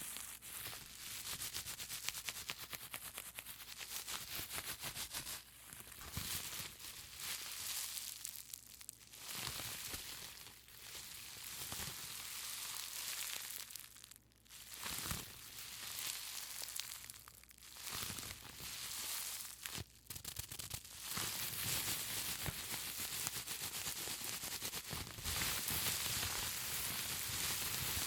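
Bubble wrap squeezed and crumpled in the hands, giving a dense crinkling and crackling of many small clicks. It pauses briefly a few times.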